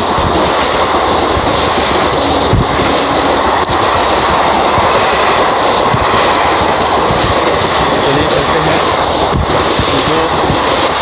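Loud, steady rumble of a passenger train running past on the track beside the platform.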